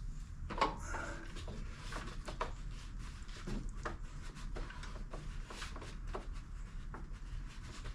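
Scattered light clicks and taps of hands and tools working around a small engine, over a low steady hum.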